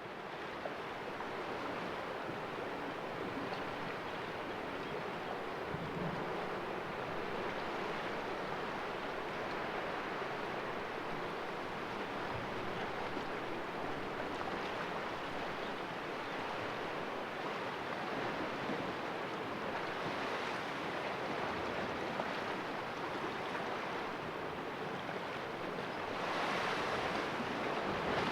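Sea waves washing against rocks in a small cove, a steady hiss of surf, with a louder wave surging in near the end.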